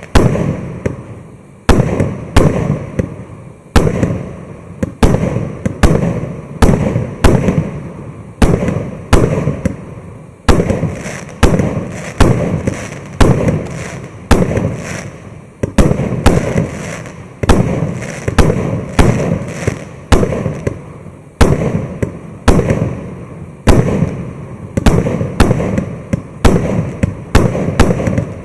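Maxsem SB-120-01 fireworks battery firing shot after shot: a steady run of loud bangs, a little more than one a second, each dying away before the next.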